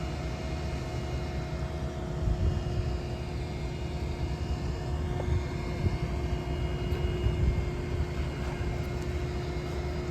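An engine running steadily at constant speed: a low rumble under a steady hum, with no change in pitch.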